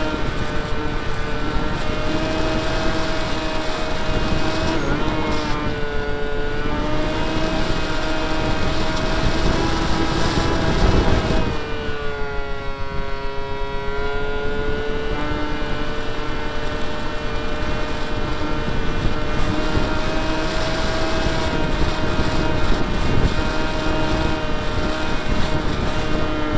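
Brushless electric motor and 7x6 propeller of a Skyartec Skyfun RC plane running at speed, heard from an onboard camera: a steady whine with several tones over wind rushing on the microphone. About twelve seconds in, the throttle comes back and the pitch falls, then climbs again a few seconds later.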